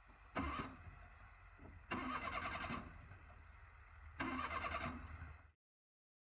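Suzuki Mehran's three-cylinder petrol engine being started with the accelerator pumped: a steady low engine sound with three loud surges about a second and a half to two seconds apart. It cuts off suddenly near the end.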